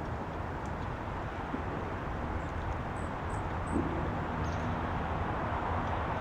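A few short, faint, high bird chirps about halfway through, over a steady low outdoor rumble.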